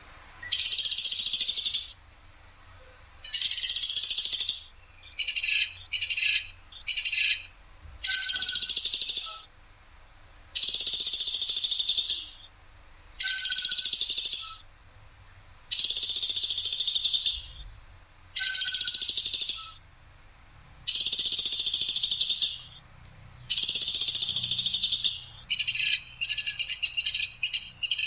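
Platuk sampit calling: loud, harsh, high-pitched rattling bursts of about a second each, repeated every two to three seconds, with quicker runs of short bursts twice.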